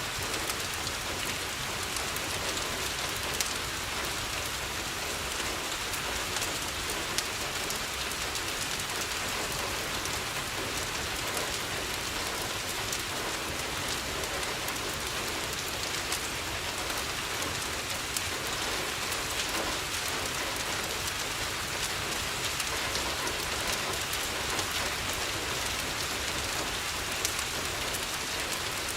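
Steady rain pattering on a window, with scattered sharp crackles from a wood fire in a fireplace.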